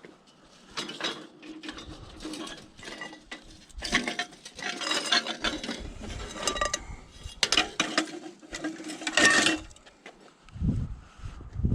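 Loose pieces of scrap metal clinking and clattering as they are handled and moved, in three bouts of rattling with short pauses between.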